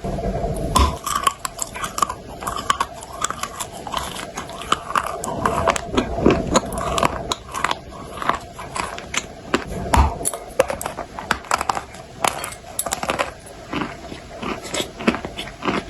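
Close-up crunching and chewing of dry, hard eating clay: many sharp, irregular crunches, several a second.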